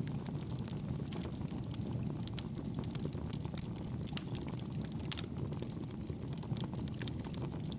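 Wood fire in a fireplace crackling: many small sharp pops and snaps scattered over a steady low rumble of burning.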